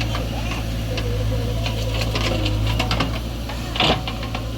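Diesel engine of heavy earth-moving machinery running steadily, with a run of short knocks and rattles and one louder thump a little before the end.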